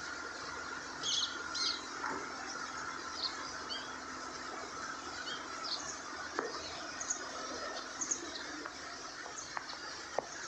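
A flock of small birds chirping: short, scattered high chirps every second or so over a steady outdoor hiss.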